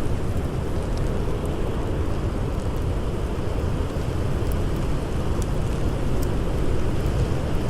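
Blizzard wind blowing steadily with a deep rumble, and a few faint crackles and pops from a campfire scattered through it.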